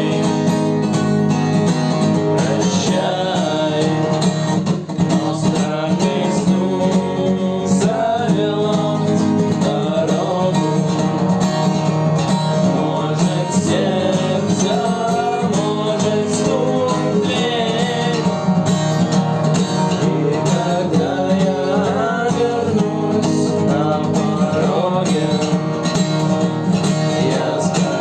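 Guitar music: steady strumming with a melody line moving over it.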